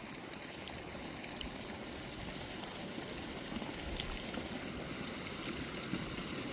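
Steady, fairly quiet running water splashing and trickling, as from a garden koi pond's waterfall.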